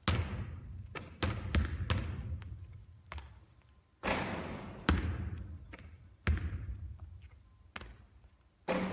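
A basketball bouncing and striking hard surfaces during shooting practice: a string of sharp impacts about a second apart, each trailing off in echo, with the strongest ones about four seconds in and near the end.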